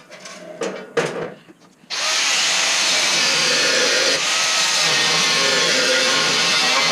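A few light handling knocks, then about two seconds in a power cutting tool starts and runs steadily and loudly, cutting through 3/8-inch steel.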